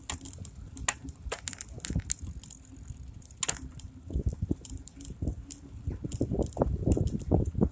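Riding noise of a bicycle heard through a phone mounted on the bike: irregular clicks and rattles, with heavier knocks and rumble from bumps in the second half.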